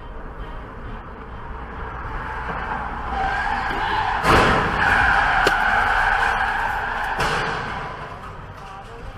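Car tyres skidding and squealing from about three seconds in, with a sharp collision bang just after four seconds. The skid noise goes on for about three more seconds and ends with a second, weaker knock.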